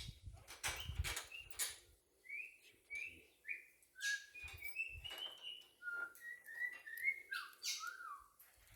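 A run of short whistled notes, several sliding downward, from about two seconds in to near the end. They come with scattered sharp clicks and a few low knocks in the first second.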